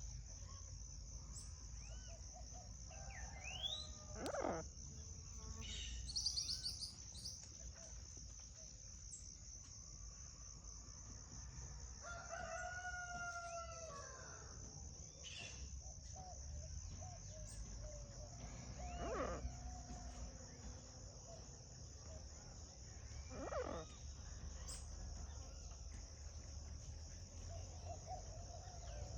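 Steady high-pitched insect drone, with scattered bird calls over it: several short, sharp calls and one longer drawn-out call of wavering pitch about halfway through.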